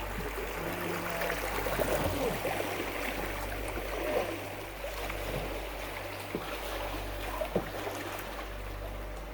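Water gurgling and trickling along a canoe moving on a river, with a couple of short knocks.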